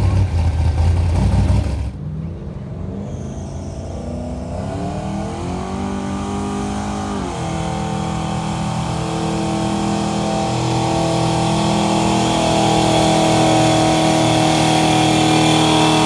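A gas-engine pickup truck pulling a sled under heavy load. A loud, rough rumble cuts off about two seconds in, then the engine revs climb steadily, dip briefly about seven seconds in, and hold high, growing slowly louder and higher.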